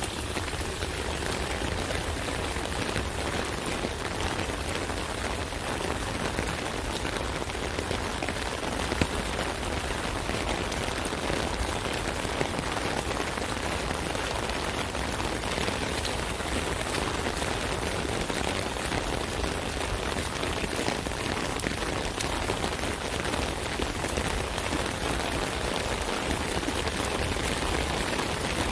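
Steady rain pattering on an umbrella canopy, a dense even hiss of drops with scattered louder single drop hits.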